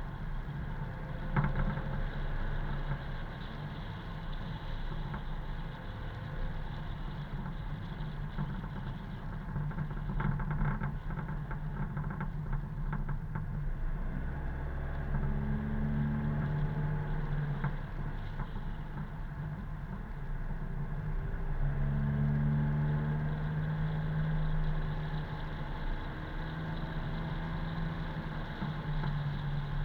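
Car driving along a road: steady engine hum over road noise, with the engine note changing a few times.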